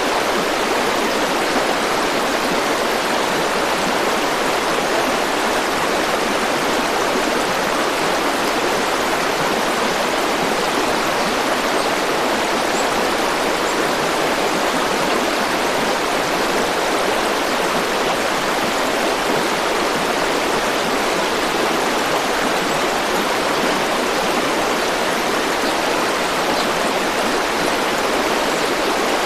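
River or stream water flowing and rushing over stones, a steady, even rush of water.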